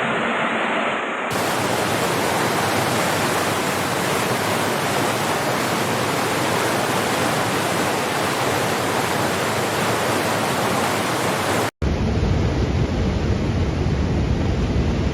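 Rushing floodwater: a loud, dense, steady rush of turbulent water. About twelve seconds in the sound cuts off for an instant and resumes as a deeper, lower-pitched rush of churning water.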